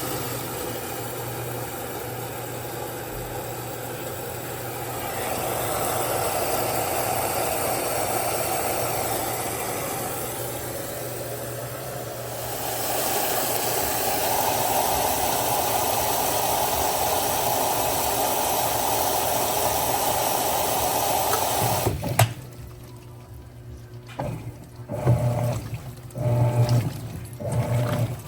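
Mueller Popmatic 8 kg washing machine filling its tub with water: a steady rush of water over a low hum. About 22 seconds in the flow cuts off suddenly, and a few short, uneven low hums follow.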